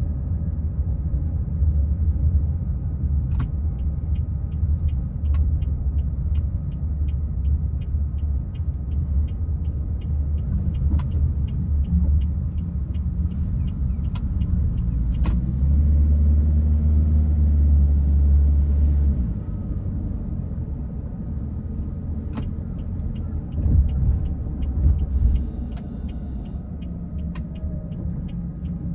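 A car driving, heard from inside: steady low rumble of engine and road noise, swelling for a few seconds past the middle. For about ten seconds early on, a faint regular ticking runs under it, several ticks a second.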